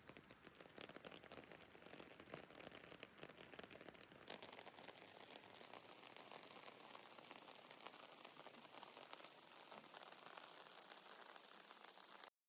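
Faint, steady light rain, a fine patter of many small drops, that cuts off suddenly near the end.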